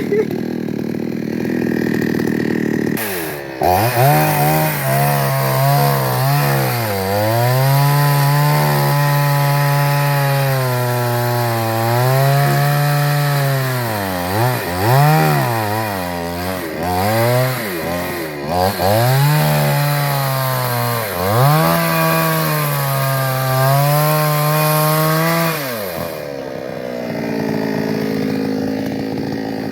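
Two-stroke chainsaw cutting wood at full throttle, its engine pitch sagging and recovering again and again as the chain bites into the wood. The throttle opens a few seconds in, and the saw drops back to a lower idle near the end.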